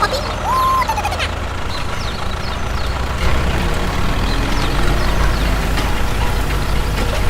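A small motor running steadily with a low pulsing drone, with many short high chirps over it and a brief held whistle-like tone about half a second in.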